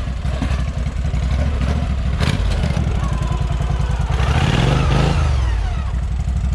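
Engine of a built off-road lawn tractor working under load, revving up and back down about four seconds in, with a knock about two seconds in.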